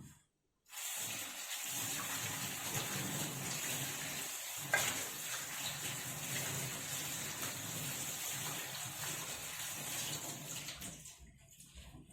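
Water running steadily from a tap into a pot or bowl for about ten seconds, starting about a second in and stopping near the end, with one light knock partway through.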